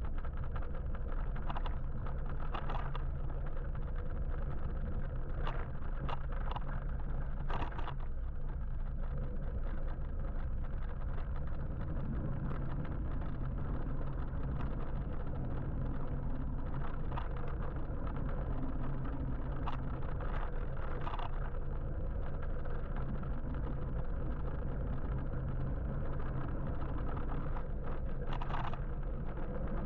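Street traffic heard from a moving electric motorbike: a steady low rumble of road and wind noise, with brief swishes of other vehicles passing now and then.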